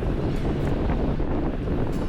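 Wind buffeting the microphone with a steady low rumble, as on a moving boat.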